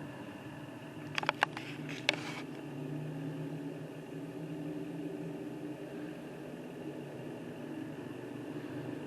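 A machine running with a steady hum, like an idling engine, with three sharp clicks a little over a second in.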